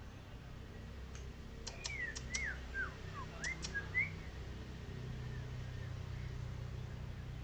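White-rumped shama (murai batu), golden variant, giving a short burst of song: a few sharp clicks mixed with quick whistled notes that slide down and up in pitch, starting about two seconds in and lasting about two seconds.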